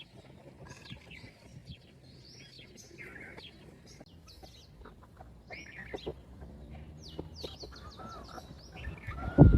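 Small birds chirping and twittering, many short high calls scattered throughout. Near the end a much louder sudden sound cuts in.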